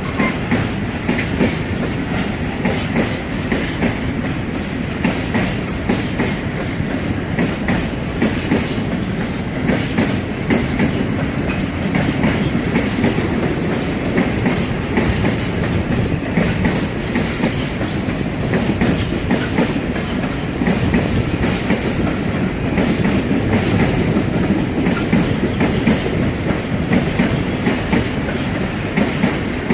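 Railway wagons rolling past, with a steady clatter of wheels over rail joints.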